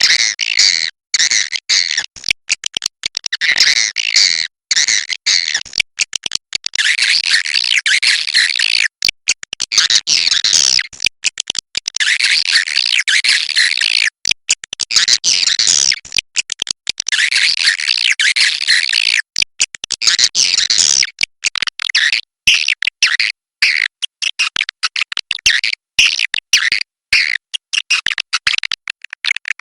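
Swiftlet 'inap' lure call: a recording of edible-nest swiftlets chattering, the kind played in swiftlet houses to draw the birds in to roost. The high chirping calls run dense and continuous, broken by many sudden short gaps.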